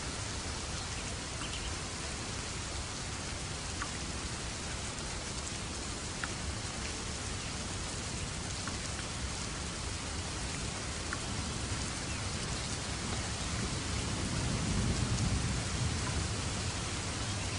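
Steady rain falling, with a few separate drop ticks. A low rumble of thunder swells about fourteen seconds in and fades again.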